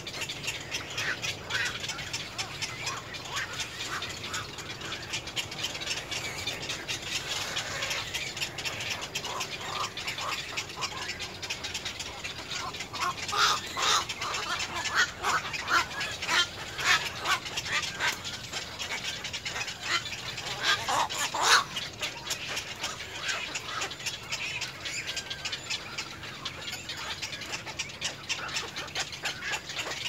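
Birds calling: a dense run of rapid, clicking chatter with harsh, quacking calls mixed in. The calls get louder in bursts about halfway through and again about two-thirds of the way in.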